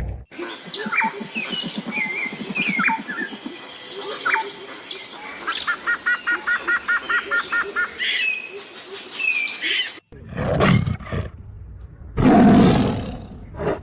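Several birds chirping and singing, with one bird giving a fast run of about five even notes a second midway. It cuts off suddenly near the end, and a louder, lower, drawn-out animal call follows.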